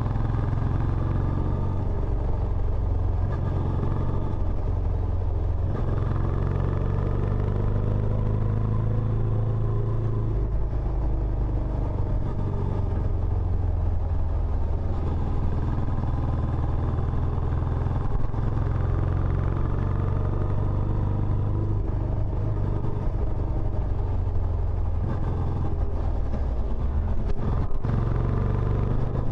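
Benelli Imperiale 400's single-cylinder engine running through its stock exhaust, a steady low exhaust note with small shifts in pitch.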